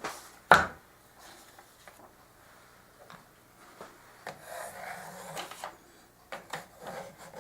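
Pieces of wood being handled on a workbench: a sharp wooden knock about half a second in, then soft rubbing and scraping, and a few light taps near the end.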